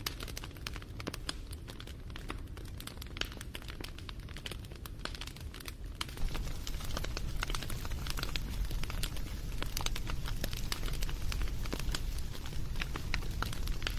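Wood campfire crackling, with irregular sharp pops over a low rumble of the flames. The crackling grows louder and busier about six seconds in.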